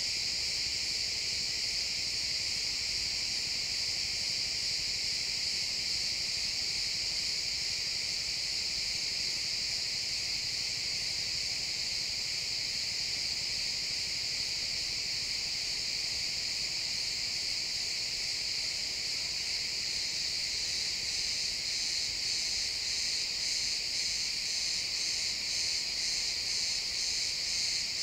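A chorus of crickets chirping, a dense, steady high-pitched trill. From about three quarters of the way in, a more distinct rhythmic pulsing of chirps stands out above the continuous trill.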